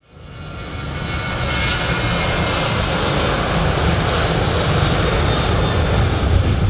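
Airliner jet engines running loud: a heavy low rumble under a broad rushing noise with a faint whine, building up over the first second and then holding steady.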